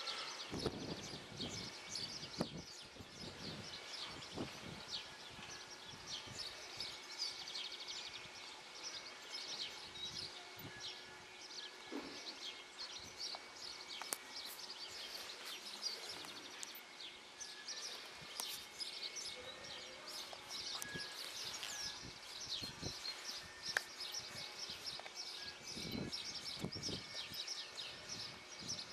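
Many small birds chirping and singing, with short high chirps throughout over faint outdoor ambience.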